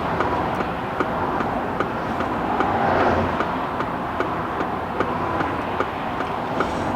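Fast motorway traffic rushing past a stopped car, swelling about three seconds in as a vehicle goes by. A regular tick runs under it about twice a second, as from the hazard-light flasher.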